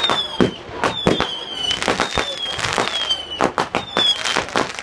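Fireworks going off in quick succession: short high whistles about once a second, each dropping slightly in pitch, mixed with sharp bangs.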